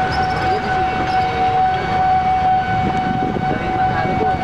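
Passenger train carriages running past at close range, a steady loud rumble of wheels on rails. Over it a level-crossing warning alarm sounds a steady, unbroken high tone.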